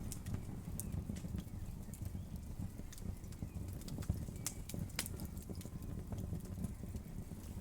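Wood fire crackling: a steady low rumble of flames with irregular sharp pops and crackles, a few louder pops a little past the middle.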